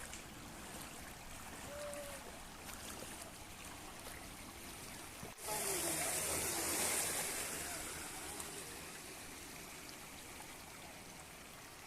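Floodwater flowing and rushing, a steady watery noise. About halfway through it suddenly gets louder and hissier, then slowly fades back down.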